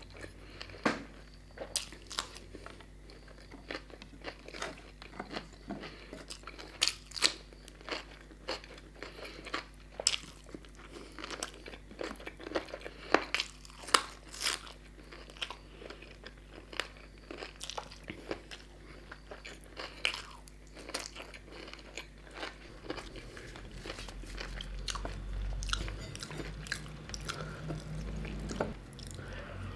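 Close-up chewing and biting of a person eating puri with chicken curry by hand: many sharp, wet mouth clicks scattered through. A low rumble comes in over the last several seconds.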